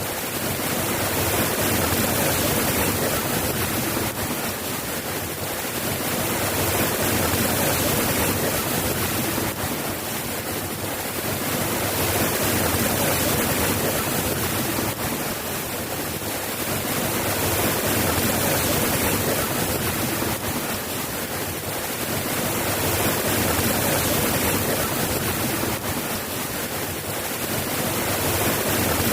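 Steady rain falling, an even hiss that swells and eases gently every five seconds or so.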